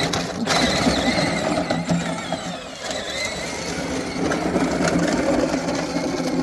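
Ride-on tractor's motor running steadily, with a constant low hum and a light rattle.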